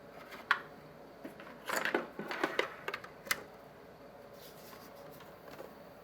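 Several short clicks and knocks as the reassembled TiVo Roamio box and its cables are handled to power it up, the busiest about two seconds in and the sharpest a little after three seconds. A faint steady hum runs underneath.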